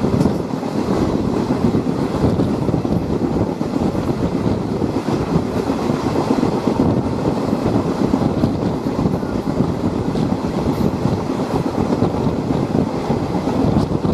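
Passenger train running along the track, heard from on board: a steady rumble of wheels on rails.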